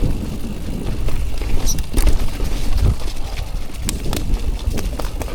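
Electric mountain bike rolling down a rough, wet trail: a steady low rumble of wind and tyre noise on the bike-mounted microphone, with sharp knocks and rattles of the bike jolting over bumps, the clearest around two and four seconds in.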